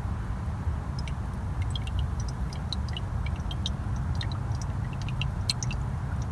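1997 Toyota Camry's 5S-FE four-cylinder engine idling steadily with a low rumble. Scattered light clicks sound over it from about a second in.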